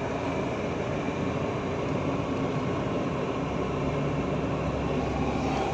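Steady drone of a heavy truck's engine running, an even noise with no sudden events.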